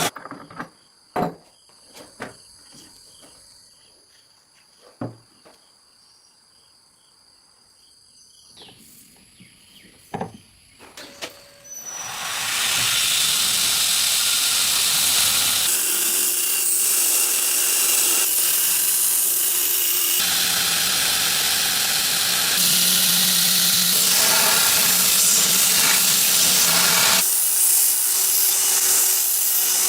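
A few sharp knocks over a quiet background with a high, steady trill. About twelve seconds in, a loud, steady hiss sets in and runs on, shifting in tone a few times.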